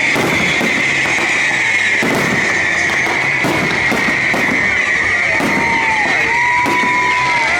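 Fireworks display going off continuously: a rapid series of bangs over a dense, steady crackling hiss.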